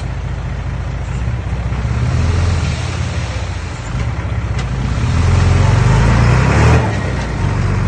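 Diesel engine of earthmoving machinery running with a loud low rumble. It works harder and louder about five seconds in, then drops back shortly before the end.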